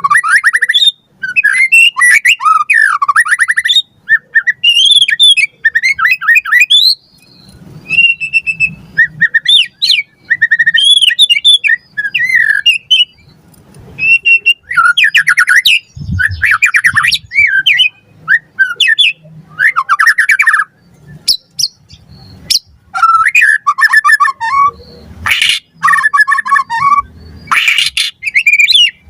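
White-rumped shama (murai batu) singing a loud, varied song of quick whistled and chattering phrases, broken by short pauses.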